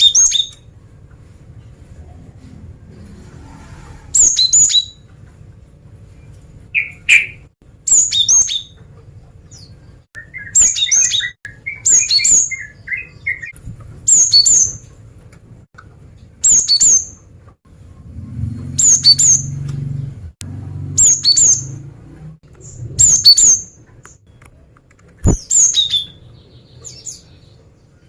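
Female cinereous tit (gelatik batu) calling: short bursts of two or three sharp, very high notes, repeated about every two seconds, with some softer twittering between them.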